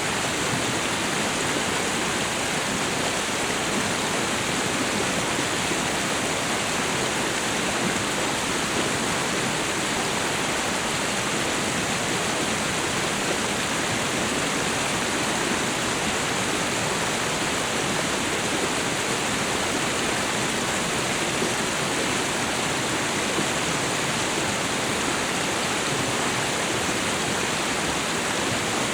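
Waterfall and river water rushing in a steady, unbroken roar of white-noise-like sound.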